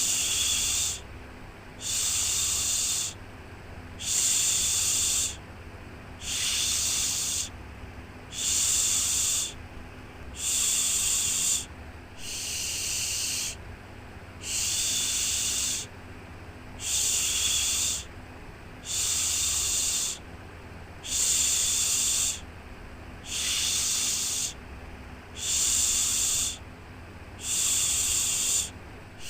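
Rhythmic 'shhh' shushing, a soothing white-noise shush for lulling a baby to sleep: one hiss of about a second roughly every two seconds, over a steady low hum.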